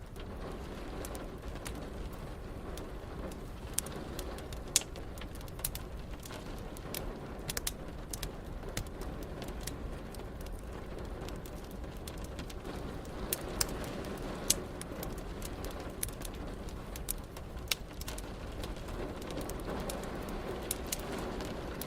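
Wood fire crackling, with sharp, irregular pops over a steady wash of rain.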